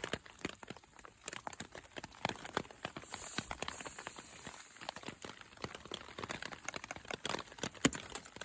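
Heavy rain in woodland: large drops tapping irregularly and closely together, with a brief rise of hiss about three seconds in.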